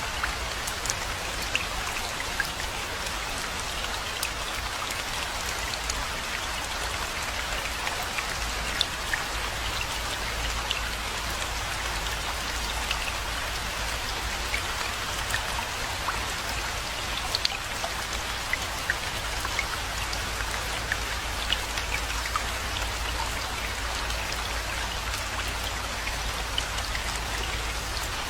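Steady rain falling, with many distinct drop patters and splashes over an even hiss, and a constant low rumble underneath.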